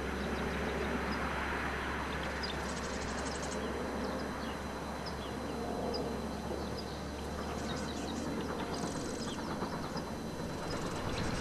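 Distant passenger train running along the line, a steady rumble. Birds chirp throughout, and short rapid insect trills come twice, about three seconds and nine seconds in.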